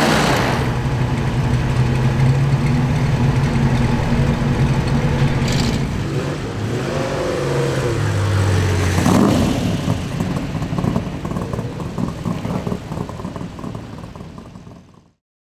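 Classic racing car engines running at low speed as the cars drive past one after another, the engine note dropping lower about eight seconds in. The sound fades down over the last few seconds and cuts off near the end.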